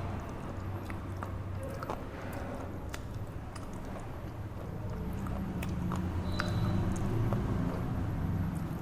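Muffled chewing of a red slate bar: a steady low grinding with a few faint crackles.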